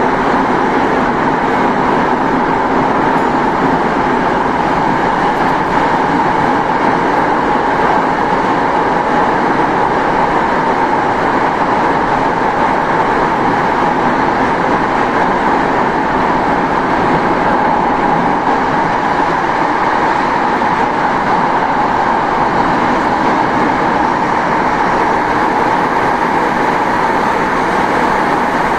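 Saitama Railway 2000 series electric train running at steady speed, heard from inside the car: a constant running noise of wheels on rail and running gear, with a steady tone near the middle of the sound.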